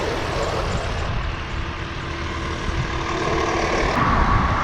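Road traffic close by: a truck engine running with a steady low rumble and hum, the hum giving way to a higher-pitched one near the end.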